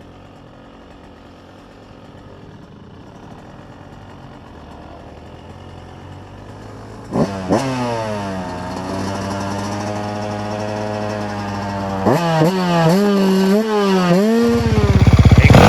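Dirt bike engine pulling off hard. After a faint hum, it climbs steeply in pitch twice at about the halfway point and runs steady. Near the end come more sharp revs and wavering throttle, then it turns loud and low close by.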